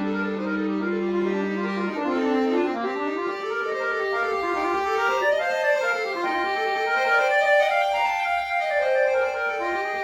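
Bayan (Russian button accordion) playing a solo piece. A held low note gives way about two seconds in to quick runs of notes that rise and fall in waves.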